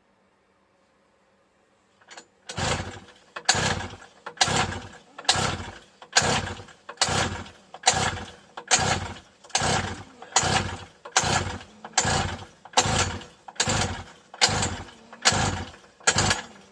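50cc two-stroke mini moto engine being cranked over and over on its pull starter, starting about two and a half seconds in: some seventeen quick, even pulls, a little over one a second, each dying away before the next. The engine never fires, not even a pop, despite neat petrol in the carb.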